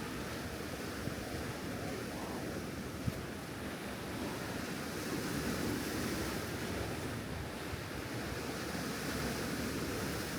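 Steady wind and ocean surf noise, with wind buffeting the microphone and a faint knock about three seconds in.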